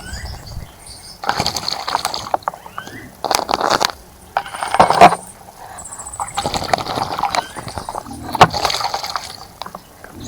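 A bird bathing in a bird bath, splashing water in five bouts of about a second each, with short pauses between.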